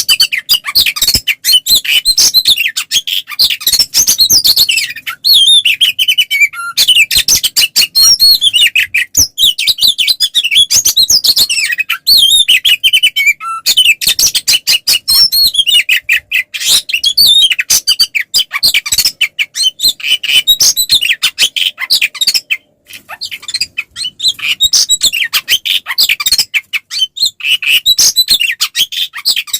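Oriental magpie-robin (kacer) singing continuously in full, aggressive fighting song: a rapid, varied stream of whistles, chatters and sharp clicking notes, broken by brief pauses three times. This is the loud, unbroken 'ngeplong' song used as bait to provoke other kacer into answering.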